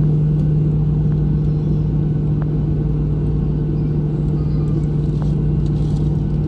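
Steady drone inside a Boeing 737-800 cabin on the ground before take-off: a constant low hum over a rumble, with a few faint clicks.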